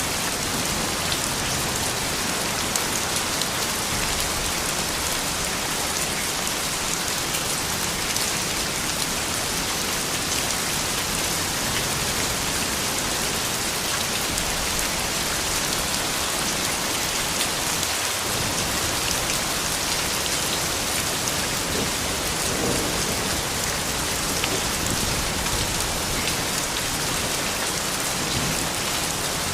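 Steady soft rain: an even hiss of many small drops falling on surfaces, without pause.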